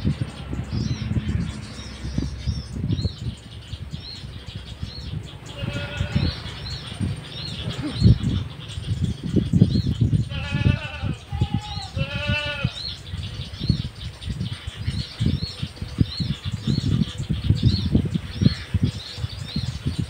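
Small birds chirping with short high calls, about one or two a second. An animal gives longer quavering calls about six, ten and twelve seconds in. A low gusty rumble runs underneath.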